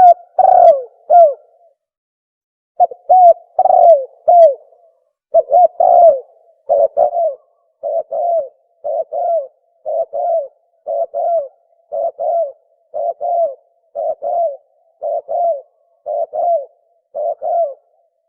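Spotted dove cooing in the deep 'sấm' voice that keepers prize: an opening run of coos, a short pause, then a steady series of paired falling coo notes about once a second. The cooing stops shortly before the end.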